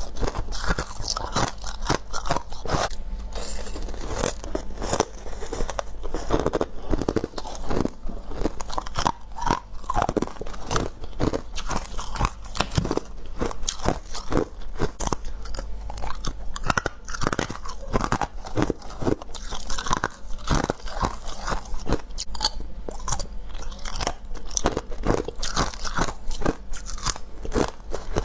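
Someone biting into and chewing freezer frost: close-up, continuous icy crunching with many irregular crunches a second, over a steady low hum.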